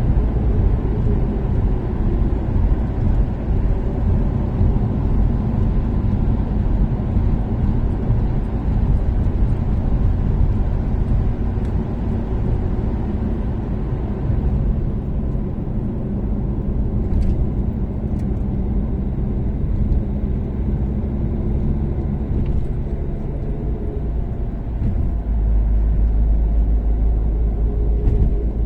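Toyota Caldina ST246W's turbocharged 3S-GTE four-cylinder engine cruising at expressway speed: a steady engine drone under tyre and road noise. The low rumble grows heavier in the last few seconds.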